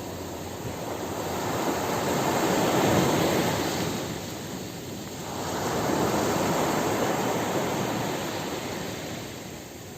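Sea waves washing in: a steady rush of surf that swells twice, loudest about three seconds in and again around six to seven seconds, easing off between and near the end.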